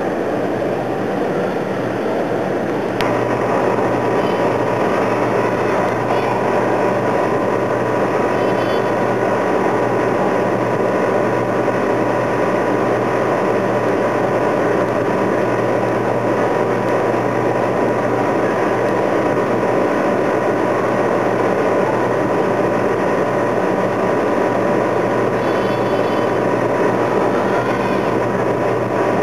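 Steady mechanical vehicle noise with a constant low hum; a click about three seconds in, after which a steady higher tone joins and it gets a little louder.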